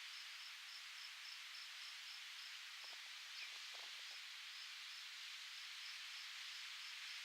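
Steady wind hiss through foliage, with an insect chirping regularly at a high pitch, about four chirps a second.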